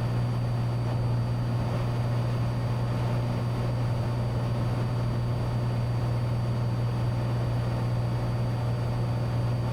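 Cessna 182T's six-cylinder Lycoming engine and propeller droning steadily in flight, heard from inside the cabin, with a constant low hum and even noise.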